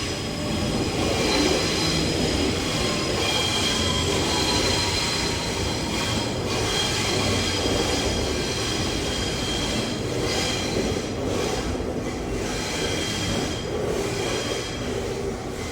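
Sydney Millennium (M-set) electric suburban train moving through, a steady running rumble with high-pitched wheel squeal held over it, the squeal tones fading and returning.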